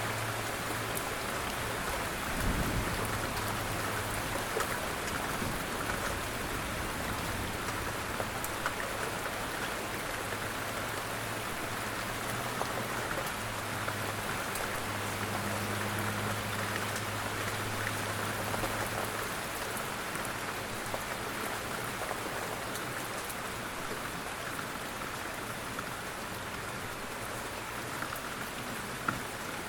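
Steady rain falling, with many small drops ticking on a surface. A faint low hum comes and goes underneath, and there is a brief low thump about two and a half seconds in.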